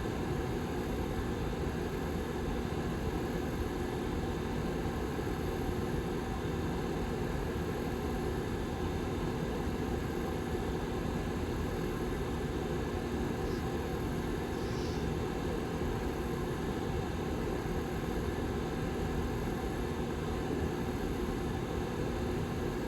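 Back fan of a Lasko Model 755320 tower heater running steadily: an even rush of air with a steady low hum.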